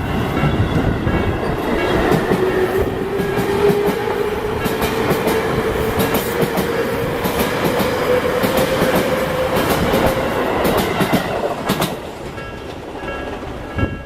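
Electric train passing at a level crossing, its wheels clattering over the rail joints under a slowly rising motor whine. The crossing's warning bell keeps ringing and comes through clearly near the end, once the train noise drops.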